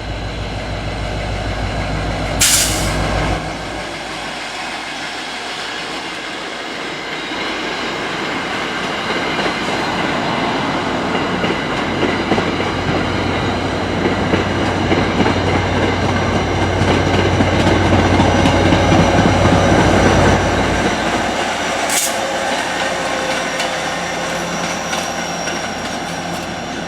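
Diesel-hauled passenger train passing: the rumble of wheels and cars builds to its loudest about twenty seconds in, then eases off. There is a short sharp burst near the start and another near the end, and a thin high squeal late on.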